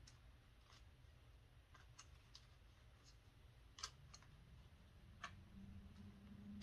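Near silence with faint, scattered clicks and ticks from hands handling the fan's plastic parts and wiring, the sharpest click about four seconds in. A faint low hum comes in near the end.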